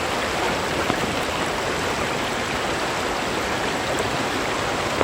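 Waterfall and mountain stream rushing steadily.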